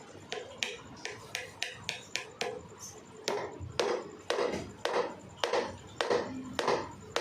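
A series of sharp knocks. For the first two seconds or so they are lighter and come about three to four a second; from about three seconds in, heavier strikes come roughly twice a second, seven of them.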